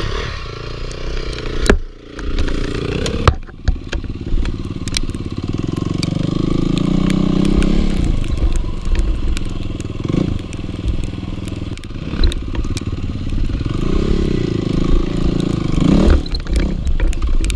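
Dirt bike engine revving up and down under riding load, its pitch climbing and falling several times. Scattered clicks and knocks from the ride are mixed in.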